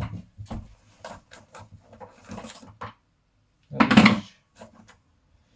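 Small hand tools and pistol parts being handled on a table: a run of light clicks and knocks, with one louder clatter about four seconds in.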